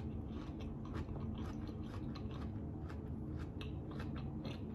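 Close-miked chewing of a mouthful of crunchy salad with apple: a quick, irregular run of short wet crunches over a low steady hum.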